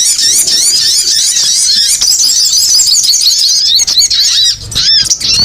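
Bird-lure recording of small birds, tagged for the male sogon: a dense, continuous twittering of many rapid, high, overlapping chirps, played to call small birds in. It drops out briefly about four and a half seconds in.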